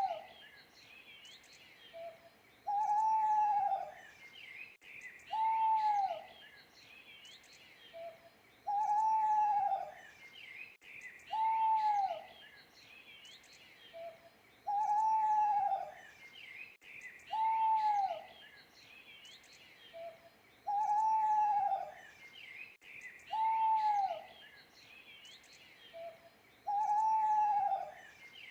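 An owl hooting in a repeating phrase about every six seconds: a short note, then two longer hoots that drop in pitch at the end. Small birds chirp and twitter behind it.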